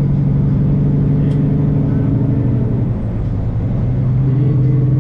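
Semi truck's diesel engine running steadily under way, heard from inside the cab as a continuous low drone that dips slightly about three seconds in.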